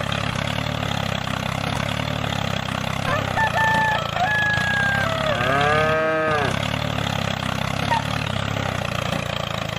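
Tractor diesel engine idling steadily. About five and a half seconds in, a cow moos once for about a second, with short animal calls a couple of seconds before it.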